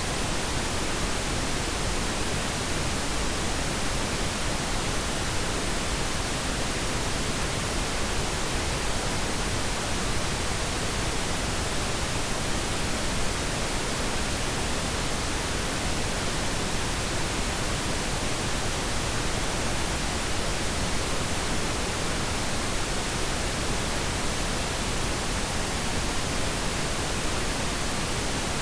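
Steady synthetic pink noise: an even, unchanging hiss spread across all pitches, without any tones or events.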